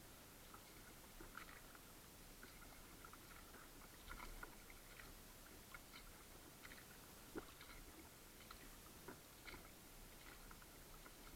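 Very faint, irregular small clicks and splashes of water dripping and lapping around a kayak, over a low hiss.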